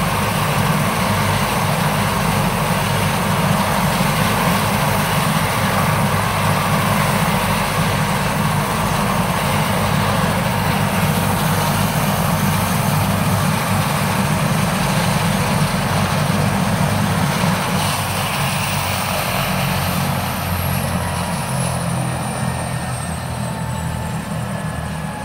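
Medical helicopter's turbine engine and rotor running steadily. In the last several seconds the sound eases a little and a high whine slides down in pitch.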